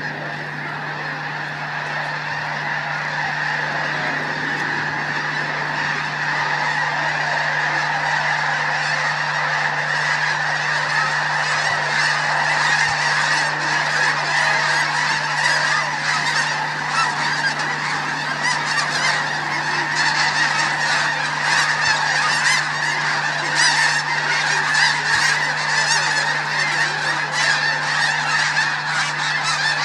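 A huge flock of snow geese honking in a dense, continuous clamour that swells over the first ten seconds or so, as the flock lifts off in a mass take-off. A steady low hum runs underneath.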